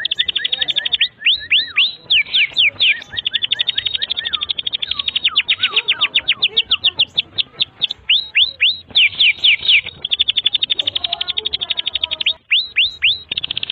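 Domestic canary singing continuously in long, high-pitched phrases: runs of falling whistled sweeps alternating with very fast, rattling trills, with a brief break near the end.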